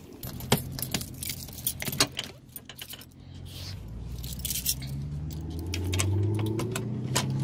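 Small hard objects clinking and rattling as they are handled, many sharp clicks in the first few seconds. Then a motor vehicle's low engine hum grows louder, rising in pitch over the last few seconds.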